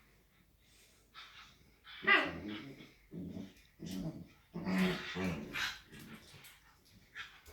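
Dog play-growling and barking during rough play: quiet at first, then a sharp bark about two seconds in and a run of short growly barks over the next few seconds.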